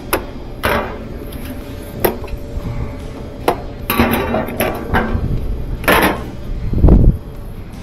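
Hand tools knocking and clanking on the metal hub and shaft of an old Whirlpool top-load washer as the agitator hub is worked off. There are about nine sharp strikes at uneven gaps, with a heavier, deeper thump near the end.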